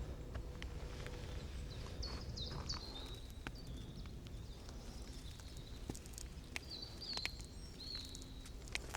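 Forest ambience: a small bird gives short high chirps, a cluster about two seconds in and another near seven seconds, over a low steady background rumble with scattered faint ticks.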